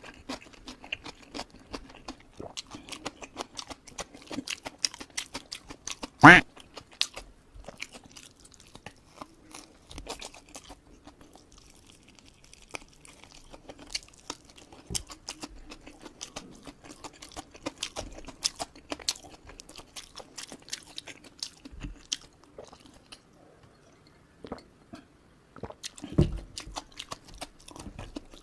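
Close-miked eating sounds of a person chewing chicken and rice eaten by hand: a dense run of small sharp clicks and crunches. A sharp loud thump comes about six seconds in and another near the end, over a faint steady hum.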